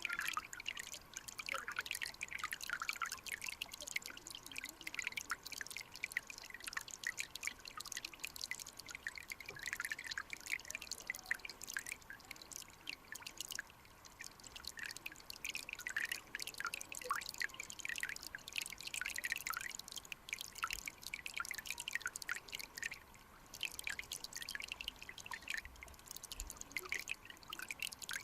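Mountain stream water running over rocks, a dense, irregular patter of small drips, plinks and splashes.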